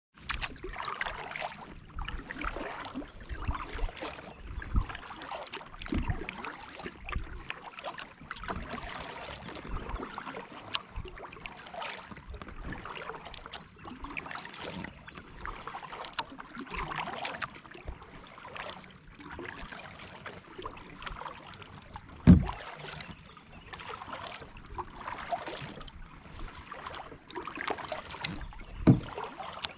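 Kayak on a creek: paddle strokes swishing and splashing through the water about every second or two. There are two sharp thumps, about twenty-two and twenty-nine seconds in, the loudest sounds here.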